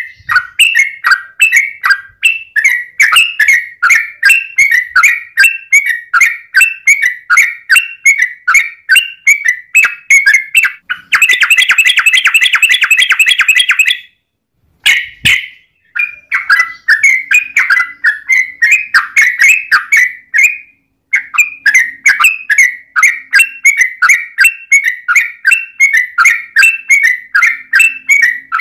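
Yellow-vented bulbul (trucukan) singing in a rapid run of loud chirps, about three a second. About eleven seconds in it breaks into a fast, dense trill lasting about three seconds, then stops briefly before the chirping resumes.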